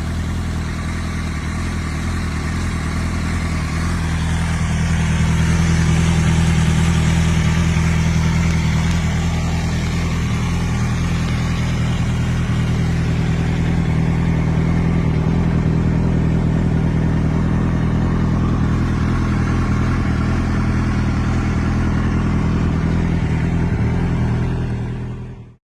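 Yamaha YZF-R1 RN12's inline-four engine idling steadily through a Yoshimura aftermarket exhaust. It grows louder about five seconds in, holds even, and cuts off suddenly near the end.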